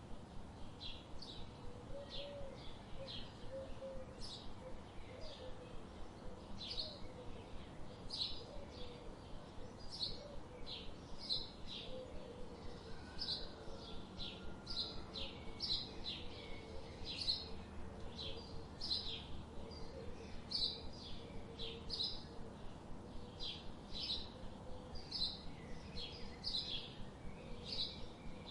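Birds chirping: a steady run of short, high chirps, about two a second, with a fainter, lower warbling call in the background.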